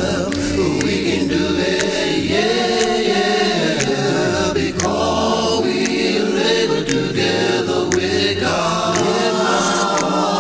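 A cappella choir of several voices singing a gospel song in harmony, with no instruments.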